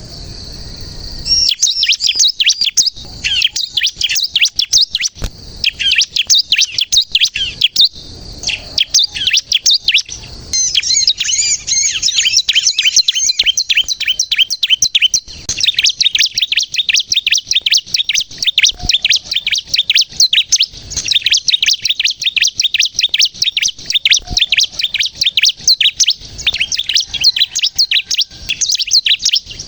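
Bar-winged prinia (ciblek) singing vigorously: a fast, almost unbroken stream of high, rapid chirps and trills. A single steady high note opens the song before the chirping starts.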